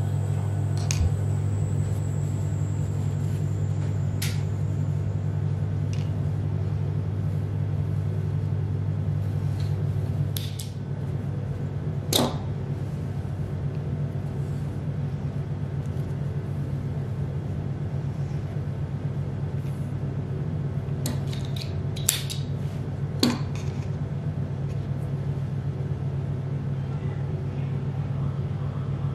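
A steady low mechanical hum, like an appliance motor running, which shifts slightly higher in pitch about ten seconds in. A few light clicks and taps come over it, one about 12 seconds in and a pair around 22 seconds.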